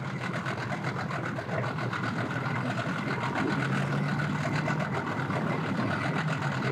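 An engine idling steadily with an even, rapid pulse; a low hum in it grows stronger about three and a half seconds in.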